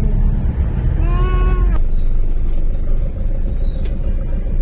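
Truck engine and road noise rumbling steadily inside the cab. About a second in comes one short, drawn-out vocal sound whose pitch rises and falls, and a faint steady whine joins after about halfway.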